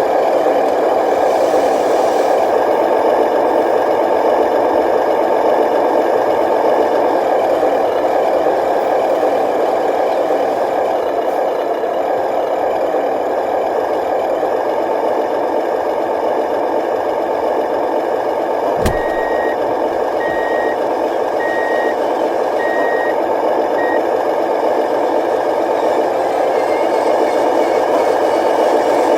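Radio-controlled dump truck's electric drive motor and gearbox whirring steadily. About two-thirds of the way through there is a sharp click, then five evenly spaced short reversing beeps from its beeper.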